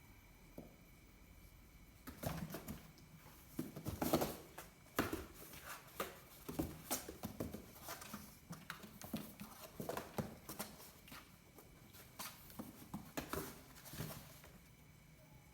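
Kittens' paws pattering and scuffling as they play: irregular light taps and rustles, starting about two seconds in and thinning out near the end.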